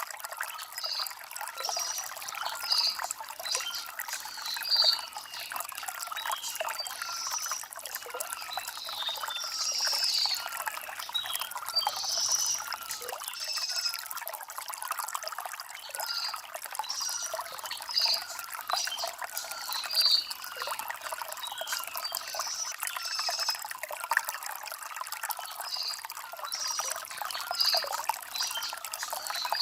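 Shallow stream trickling over river stones, with birds chirping every second or two.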